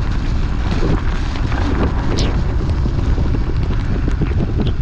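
Wind buffeting the camera microphone over the steady rumble of a mountain bike riding a rough trail, with scattered sharp clicks and rattles.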